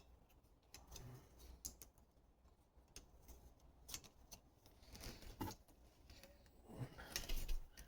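Faint, scattered clicks and light handling noise as small parts are pushed in and popped out, with a louder burst of clicking and rustling about seven seconds in.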